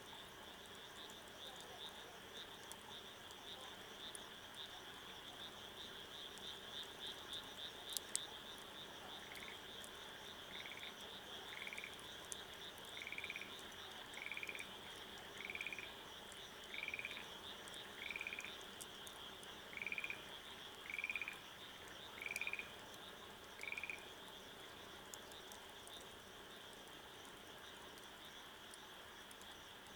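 A frog calling in a series of about a dozen short calls, roughly one a second, starting about a third of the way in and stopping a little after the middle, over a steady high-pitched insect trill. There are a couple of sharp snaps about eight seconds in.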